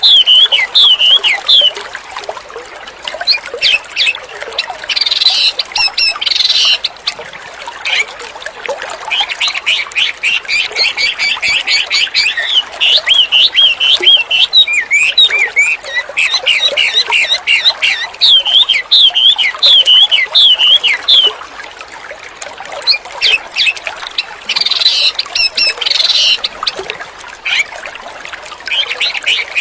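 A wambi songbird singing continuously in full voice: rapid chattering phrases of repeated high notes, broken twice by denser, faster trills.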